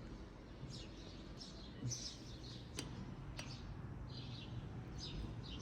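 Small birds chirping in short, quick falling notes over a low steady background hum, with two light clicks in the middle.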